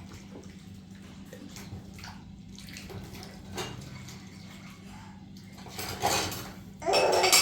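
Water splashing or pouring, in two loud bursts near the end, over a steady low hum and light scattered clicks.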